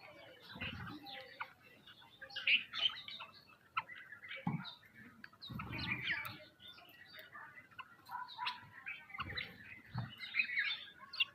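Small birds chirping, many short overlapping calls, with a few soft low thumps scattered through.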